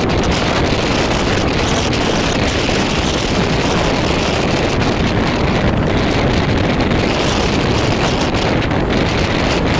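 Suburban EMU electric local train running between stations, heard from on board as a loud, steady rush with wind buffeting the microphone.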